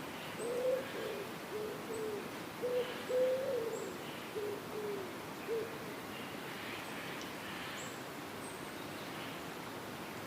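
An owl hooting: a run of about nine short, low hoots in the first half, some ending with a slight drop in pitch, over a steady forest hiss with faint high chirps.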